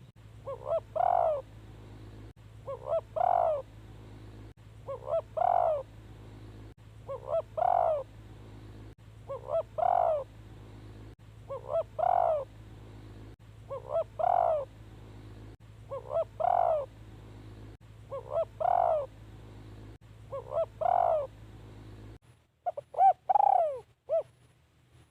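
Spotted dove cooing its phrase over and over, about one every two seconds: two short notes then a longer, louder coo. A steady low hum runs underneath and cuts off near the end.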